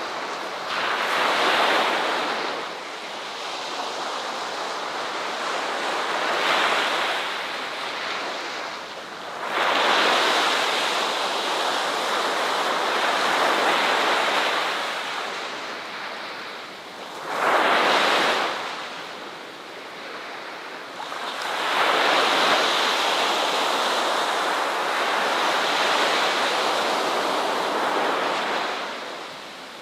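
Ocean surf: waves breaking and washing in, the rush of water swelling and falling back about five times, with the longest surges near the middle and toward the end.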